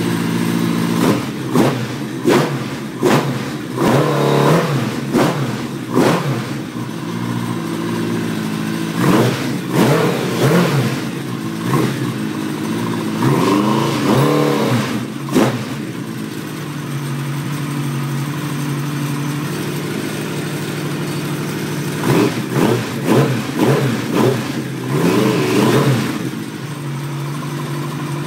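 Suzuki GSX1400 inline-four engine running on its first start after an engine swap: it idles and is revved in repeated short throttle blips, with a steadier idle stretch between two bursts of blipping. It carries a rattle that the owner thinks comes from the cylinder head, more rattly than he wanted.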